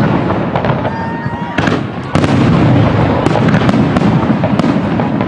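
Fireworks display: aerial shells bursting in quick succession with crackling, a dense continuous barrage that gets louder about two seconds in.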